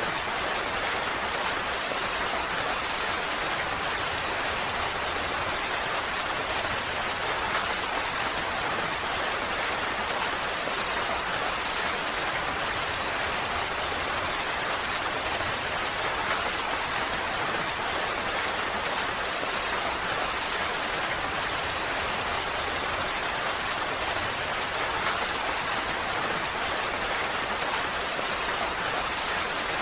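Steady rain falling, an even hiss of drops with faint scattered individual drop ticks.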